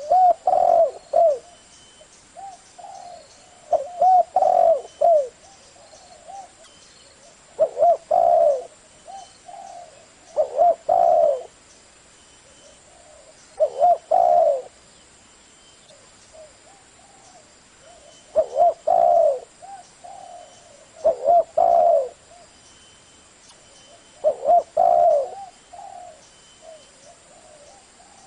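Spotted dove cooing: short, low, rolling coo phrases of about a second each, repeated every two to four seconds, with small rising and falling notes.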